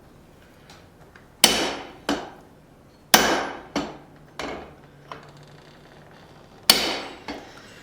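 Blacksmith's hammer striking hot steel at the anvil: three heavy ringing blows with lighter taps between them, marking the center of the tong reins where a hole will be punched.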